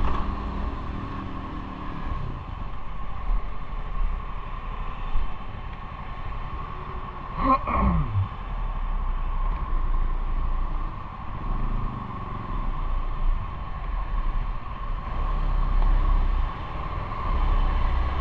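Motorcycle engine running while riding, heard from on the bike: a steady low drone whose revs fall early on and climb again later. About halfway through, a brief sound sweeps quickly down in pitch.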